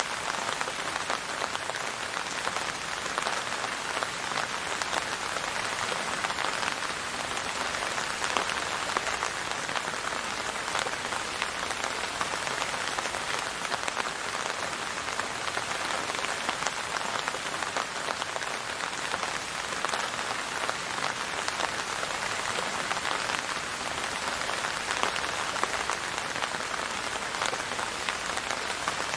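Steady rain falling on a hard surface: a dense, even patter of many fine drops.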